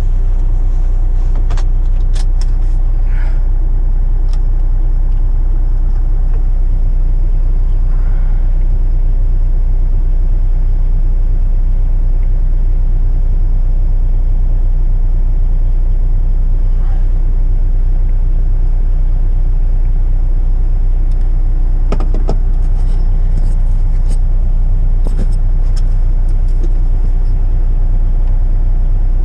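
Semi-truck's diesel engine running with a steady low drone inside the cab, with a few faint clicks.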